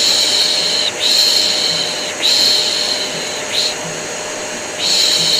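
A vacuum cleaner running steadily under repeated long 'shhh' shushing sounds, each about a second long with short breaks between. It is the kind of shushing used to soothe a baby.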